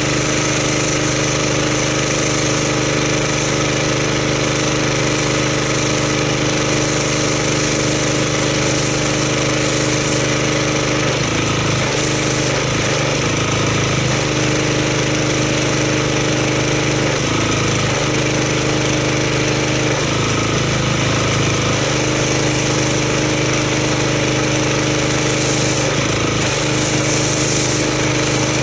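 Gas pressure washer engine running steadily, with the hiss of soap spraying from an MTM foam cannon. The engine note shifts briefly several times, around a third of the way in, in the middle and near the end.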